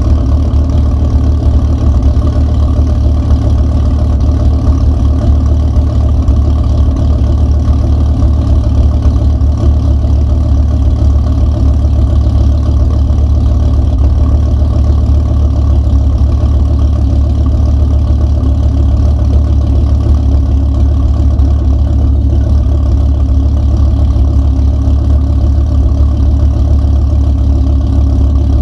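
Engine idling steadily on its first run, loud and deep, holding one even speed with no revving.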